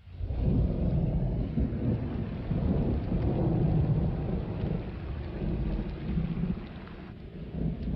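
Thunderstorm: low thunder rumbling over falling rain, cutting in suddenly and easing slightly near the end.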